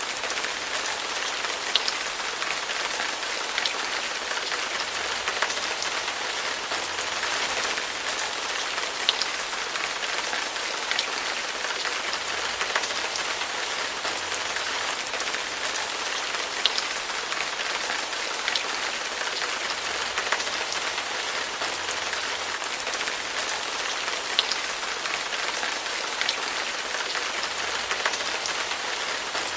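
Steady rain falling on a surface, an even hiss with scattered louder drop hits.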